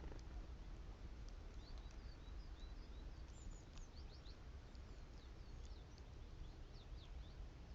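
Great tits calling: a scatter of many short, high chirps, several a second, over a faint low background rumble.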